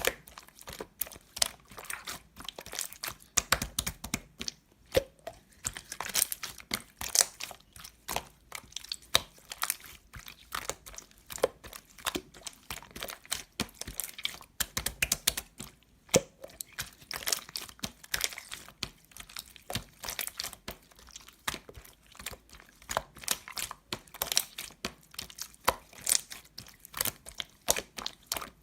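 Slime being squeezed, pressed and stretched by hand, giving a dense, irregular run of small pops, clicks and crackles.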